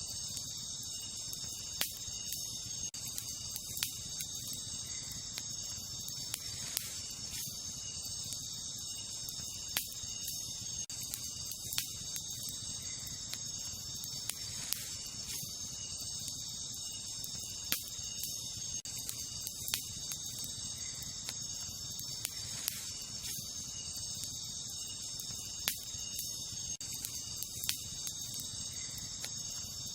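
Wood campfire crackling, with sharp pops every second or two over a low, steady rush of burning. Behind it a steady, high chorus of night insects.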